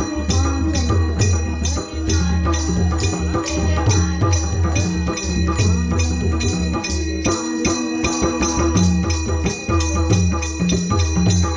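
Instrumental passage of a devotional bhajan: a drum keeps a quick, even beat with jingling small cymbals over it. The low drum part drops out briefly around the middle.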